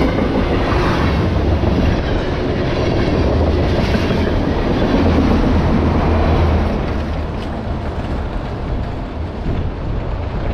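Freight cars of a manifest train rolling past close by, a continuous rumble with steel wheels clattering on the rails. It eases off a little for the last few seconds.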